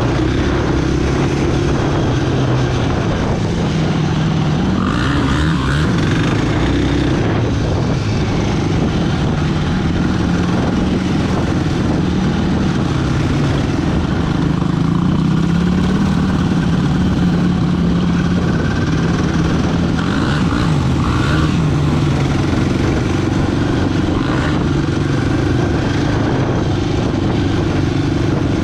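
Quad bike engine running steadily while riding, its pitch wavering up and down with the throttle.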